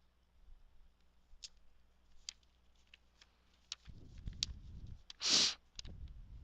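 Faint scattered clicks and taps of paper craft materials being handled, with low handling rumble in the second half and one short hissing rush a little past the middle.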